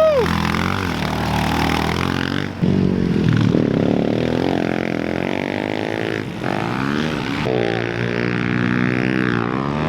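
Small four-stroke pit bike engines racing, their pitch rising and falling over and over with throttle and gear changes. At times two bikes are heard at once.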